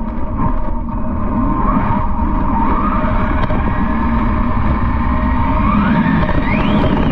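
Electric RC speed-run car's motor whining and climbing in pitch as it accelerates hard, over a steady low rumble. The sharpest rise in pitch comes near the end.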